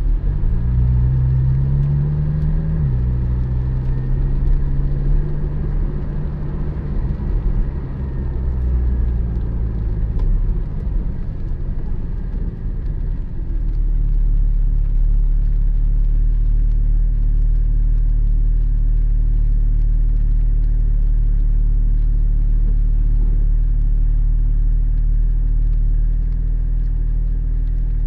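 Porsche 718 Spyder's 4.0-litre flat-six pulling hard, its pitch rising for the first few seconds and then dropping suddenly at a gear change. It then runs at a steady drone, with a strong, even low rumble from about halfway.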